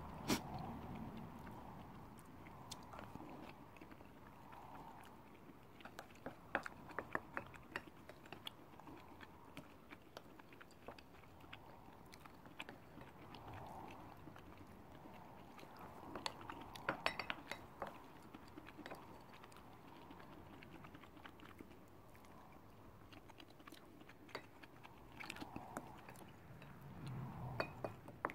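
Close-up chewing and wet mouth sounds of a person eating butter chicken with garlic rice, with scattered sharp clicks in clusters. Near the end a wooden spoon scrapes curry sauce around a ceramic bowl.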